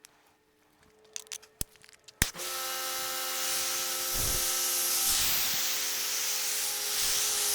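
A few small clicks, then a sharp click about two seconds in, and a pressure washer with a mini foam cannon starts spraying: a steady hiss with a steady motor hum under it. More soap has just been added to the cannon's bottle to fix weak foam.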